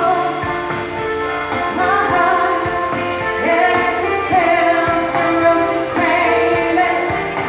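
A woman singing a pop melody over instrumental accompaniment.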